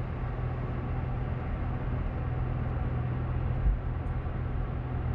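Steady drone of a moving car heard from inside the cabin: a low engine hum with road and tyre noise, and a brief low bump a little past halfway.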